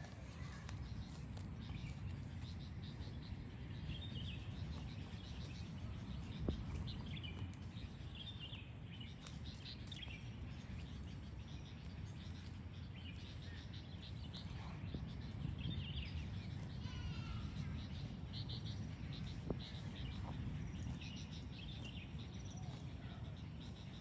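Birds calling with short chirps scattered throughout, over a steady low background rumble. Two sharp knocks stand out, one about six seconds in and one near twenty seconds.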